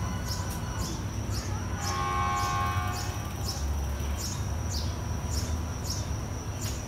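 Small birds chirping about twice a second, high and repeated, over the low steady rumble of the idling train. A short held tone sounds about two seconds in.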